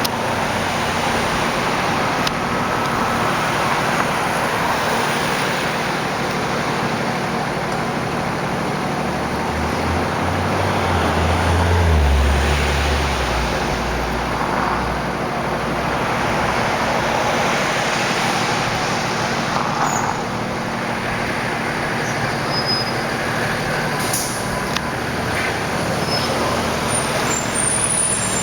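City street traffic: a steady roar of passing vehicles, with a heavy vehicle's low engine rumble swelling about ten seconds in and fading a few seconds later.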